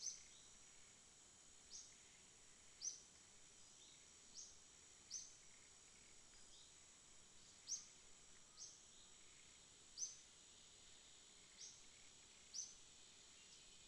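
Faint night insects trilling steadily at a high pitch, with short high chirps that drop slightly in pitch coming about every second or two, roughly ten times.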